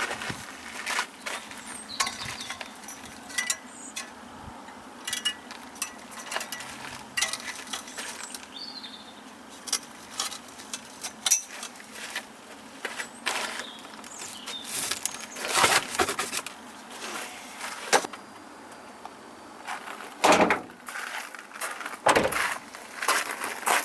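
Irregular clicks, knocks and light rattles of hands working with tools and car parts, a few sharper knocks standing out.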